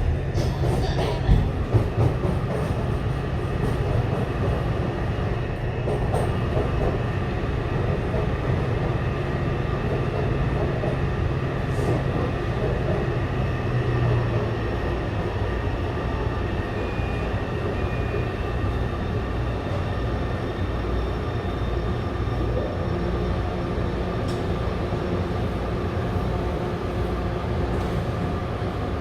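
Taipei Metro train running between stations, heard from inside the car: a steady rumble of wheels on rail with a low motor hum. The hum drops in pitch about halfway through as the train slows.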